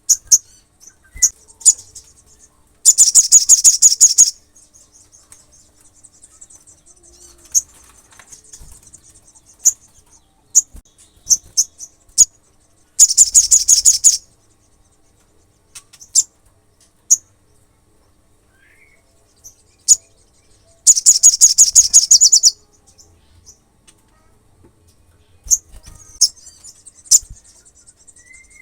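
Sunbird calling: sharp, high single chirps at irregular intervals, broken three times by a loud, rapid trill lasting about a second and a half.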